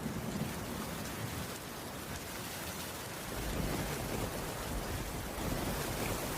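Heavy, steady rain, with a low rumble of thunder that swells again about halfway through.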